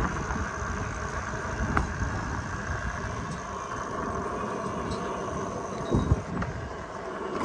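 Street traffic noise: a steady hiss of passing cars and engines with a low, uneven rumble, and a short thump about six seconds in.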